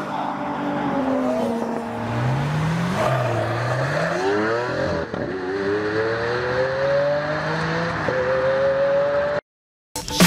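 Car engine accelerating hard through the gears: its pitch climbs, drops at each upshift (about two seconds, five seconds and eight seconds in) and climbs again, then cuts off suddenly near the end.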